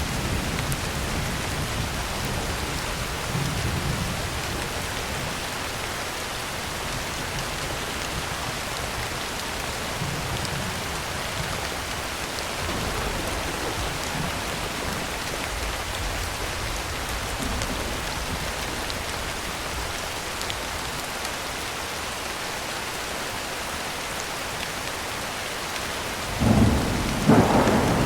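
Heavy rain drumming steadily on a tin roof, with soft low rumbles of distant thunder. Near the end a loud thunderclap breaks in.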